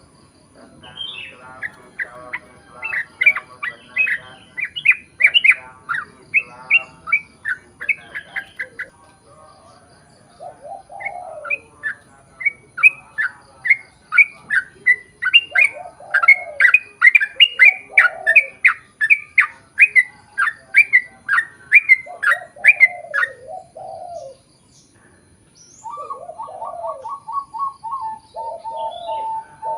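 Yellow-vented bulbul (trucukan) singing long runs of quick, bright, bubbly notes in two bouts, with a short pause between them. A lower, steadier call starts up near the end.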